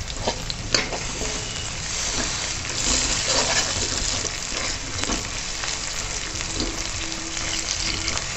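Sliced onions, crushed garlic and curry leaves sizzling in hot oil in a pan, with a metal spatula scraping and stirring through them.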